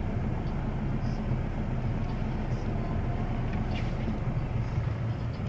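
Car engine running at low speed in crawling traffic, heard from inside the cabin as a steady low rumble under the faint noise of the street.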